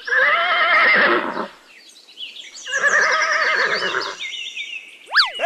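Horse whinnying twice, each call about a second and a half long with a shaking, wavering pitch. Near the end a quick whistle-like sound slides sharply down and back up.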